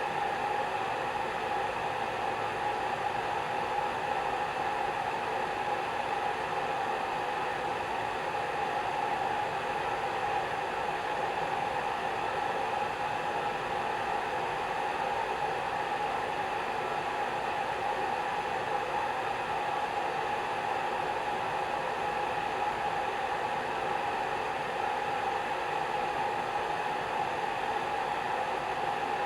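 Hair dryer running steadily: an even whooshing of blown air with a faint motor whine, unchanging throughout.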